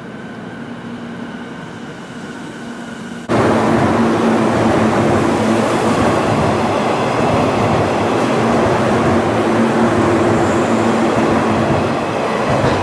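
An E217-series electric train pulling into a station platform with a steady hum. About three seconds in it cuts abruptly to the much louder, steady rushing rumble of a JR 185-series electric train running close past the platform, which begins to ease off near the end.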